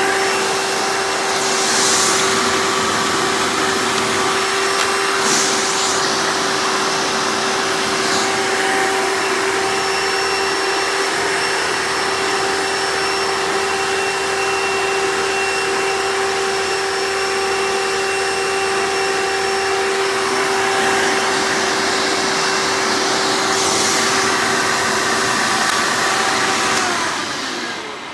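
Hoover Elite upright vacuum cleaner running with its hose attachment in use: a loud, steady motor whine with a few brief hissing rushes of air. Near the end the motor is switched off and winds down.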